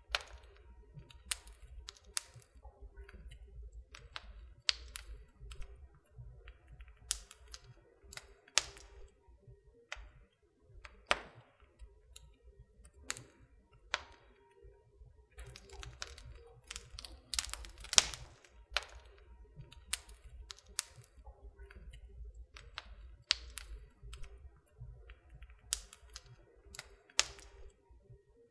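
Wood fire burning in a fireplace, crackling with irregular sharp pops and snaps over a low rumble.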